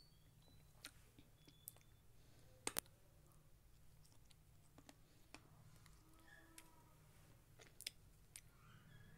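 Faint, scattered crisp clicks and crunches of a chalky slate pencil being bitten and chewed, with a sharp double click a little under three seconds in the loudest; otherwise near silence with a low hum.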